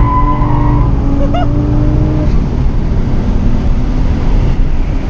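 BMW 135i's turbocharged 3.0-litre straight-six running hard under load, heard from inside the cabin over heavy road and wind noise. Its pitch drops about a second in and runs steady and lower after that.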